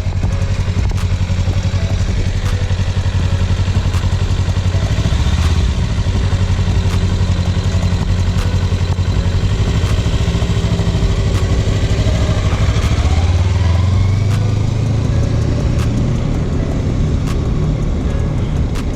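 Kawasaki Ninja 300's parallel-twin engine running steadily, with the revs rising briefly about two-thirds of the way through.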